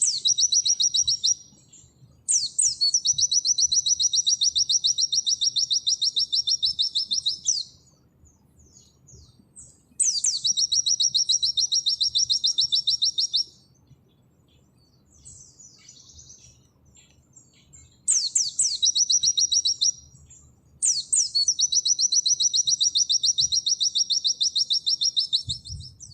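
White-eye (pleci) singing in long, very rapid trilled bouts, the fast 'nembak' song. Each bout opens with a quick downward sweep, and the bouts run two to five seconds with short pauses between them.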